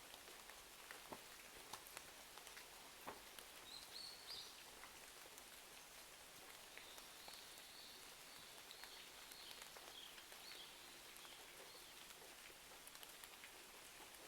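Faint steady rain hiss with scattered sharp crackles and pops from a fireplace, most of them in the first few seconds. A faint high thin tone comes in briefly about four seconds in and again from about seven to ten seconds in.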